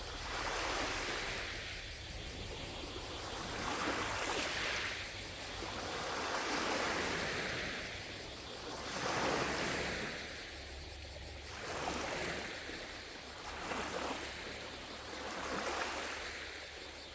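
Small lake waves lapping against the shore, each wash swelling and fading every couple of seconds.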